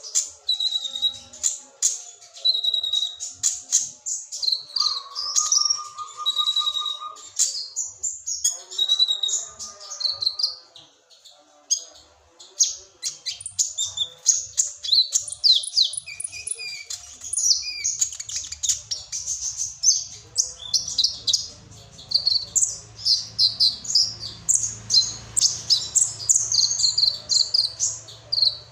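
Kolibri ninja sunbird singing a fast run of high, thin chirps and short trills, with the cricket-like trilling phrases that hobbyists train into its song.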